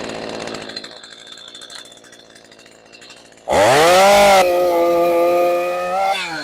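Stihl MS 212 two-stroke chainsaw idling, then revved hard to full throttle about three and a half seconds in and held there with its pitch sagging slightly as it cuts a dead fig branch, falling away as the throttle is released near the end.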